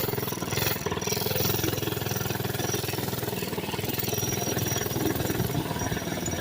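Mini bike's small engine running steadily with a rapid, even firing beat.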